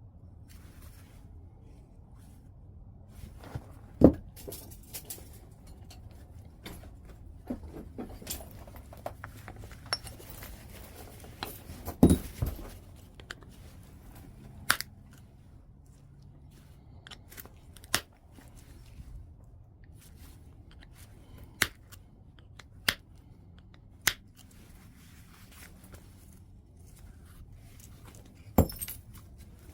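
Knapping a piece of white chert: sharp stone-on-stone clicks as flakes come off, about eight loud ones at irregular intervals, with softer scraping and small clicks between them in the first half.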